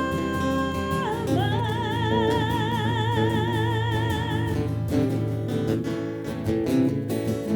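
Celtic folk band playing live: acoustic guitar accompaniment under a long held melody note. At about a second in, the melody drops in pitch and holds a second long note with vibrato until past the middle.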